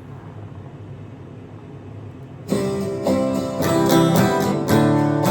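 Low room hum and hiss, then about halfway through an acoustic guitar starts strumming chords in a steady rhythm.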